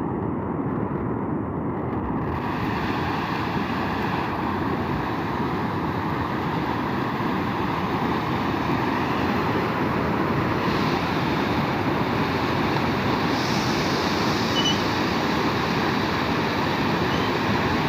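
Heavy rainstorm: a steady rushing of pouring rain and wind. It grows a little brighter about two seconds in and again near the middle.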